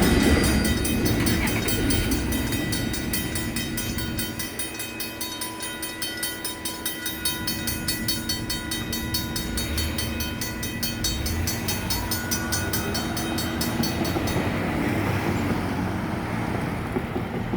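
Union Pacific intermodal stack train rolling past, its freight cars clattering and rumbling as the sound slowly fades. Griswold mechanical crossing bells ring in rapid, steady strokes over the train, then stop about three quarters of the way through.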